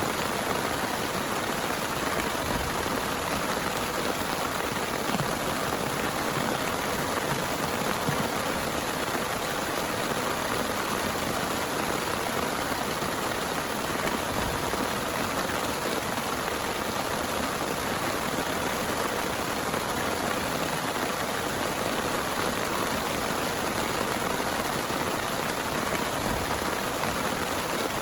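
Heavy rain falling steadily, an even hiss of drops with no thunder or other sudden sound.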